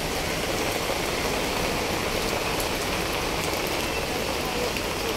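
Heavy rain falling steadily, an even hiss of rain on the surroundings.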